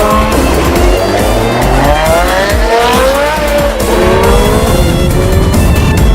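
Car engines revving hard, their pitch climbing, falling back about halfway through, then climbing again, with music playing underneath.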